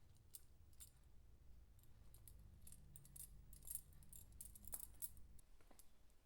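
Near silence: room tone with faint scattered light clicks and a low hum that drops away near the end.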